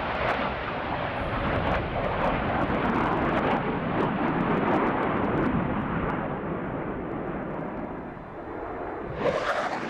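Four Blue Angels F/A-18 Hornet jets passing overhead in formation, their jet roar building to its loudest mid-way and then fading. Near the end a fresh, sudden jet roar cuts in.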